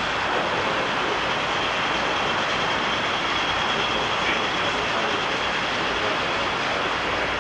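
Steady rolling rumble of a train running on track, with a faint high whine for a moment around the middle.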